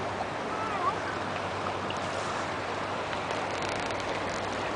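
Floodwater of a swollen creek rushing steadily, an even noise.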